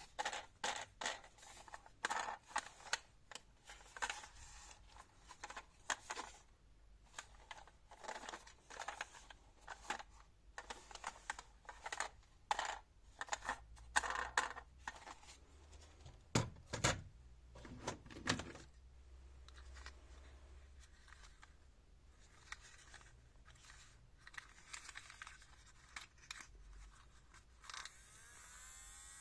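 Irregular clicks, scrapes and rustles of small plastic toys being handled, thinning out about two-thirds of the way through; a small whirring starts near the end.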